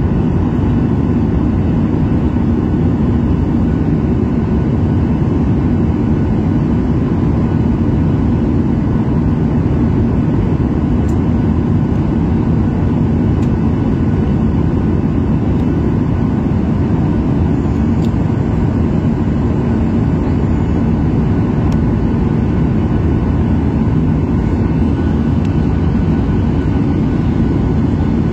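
Steady airliner cabin noise: the even low hiss and drone of the jet engines and airflow heard from inside the passenger cabin, with a few faint steady tones above it.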